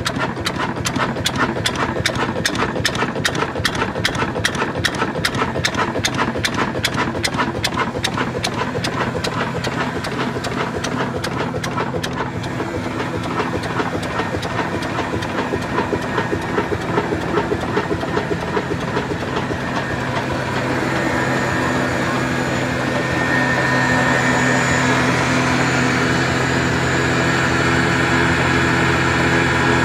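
Large old Ruston Hornsby single-cylinder diesel engine running with even, slow beats, about three or four a second. About twelve seconds in, the beats fade into a steadier, louder machine hum, with a high hiss added from about twenty seconds in.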